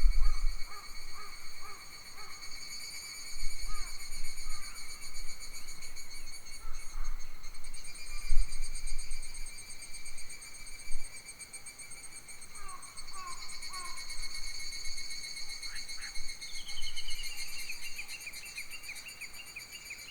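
Summer forest with insects trilling steadily and high, and birds calling in short repeated chirps; a falling call comes about 16 seconds in. Gusts of wind rumble on the microphone in the first second and again from about 3 to 10 seconds in.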